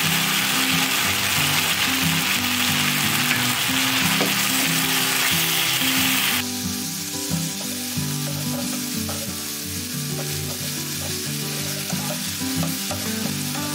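Masala paste frying in oil in a pan, sizzling, stirred and scraped with a wooden spatula. The sizzle drops sharply about six seconds in and goes on quieter, with small scraping ticks from the spatula.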